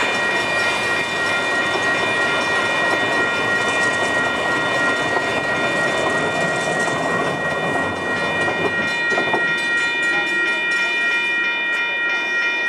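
EMD F59PHI diesel locomotive running alone at a crawl, its engine and wheels making steady noise, with a bell ringing continuously over it.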